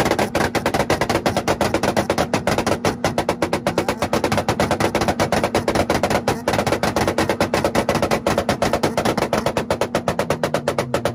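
Car engine held on a two-step launch-control rev limiter, the ignition cutting in a rapid, even stutter of exhaust bangs and pops.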